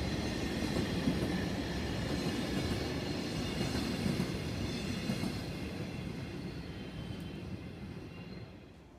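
Freight train of container wagons passing on snow-covered track, with a steady rumble of wheels on rail. The rumble fades over the last few seconds as the end of the train, a blue electric locomotive, goes by.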